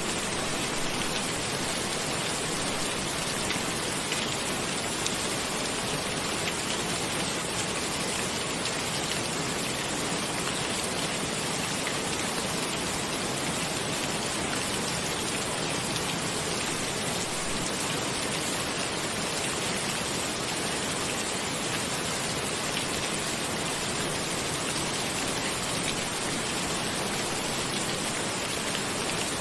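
Steady rain falling, an even rushing hiss with a fine patter of individual drops that does not change.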